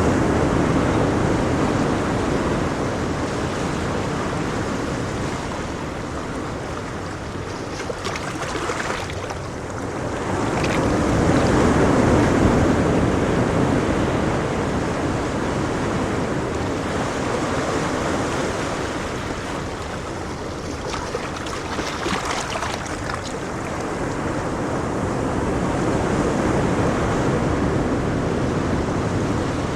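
Ocean waves breaking and washing on a shore: a continuous rush of surf that swells and ebbs slowly, with the biggest surge about twelve seconds in.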